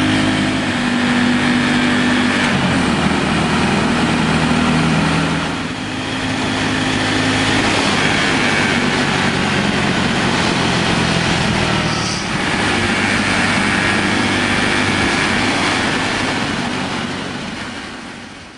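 Honda Cross Cub 110's single-cylinder engine running under way at high revs, where the owner hears a noise he cannot trace, later found to be a resonance. The engine note dips briefly twice, about six and twelve seconds in, then picks up again, and the sound fades out near the end.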